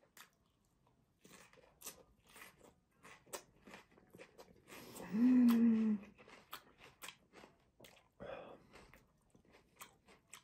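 Close-miked chewing of pickled red onion and grilled kebab: many short wet crunches and mouth clicks at an uneven pace. About five seconds in, a hummed "mmm" of about a second stands out as the loudest sound.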